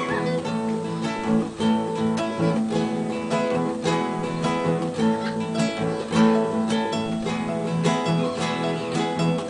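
Solo acoustic guitar (violão) playing a plucked melody with chords, notes following one another in a steady flow.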